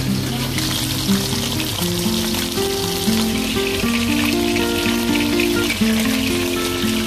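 Flour-and-cornstarch-coated chicken pieces frying in oil in a wok: a dense crackling sizzle that grows stronger about three seconds in. Background acoustic guitar music plays under it.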